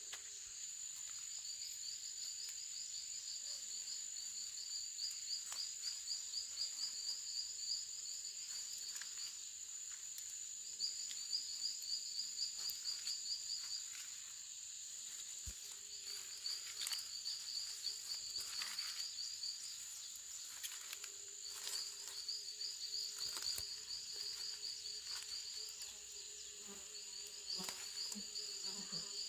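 Forest insects calling: a steady high-pitched buzz, with bouts of rapid pulsed chirping lasting a few seconds each and short gaps between them. Faint scattered clicks are heard now and then.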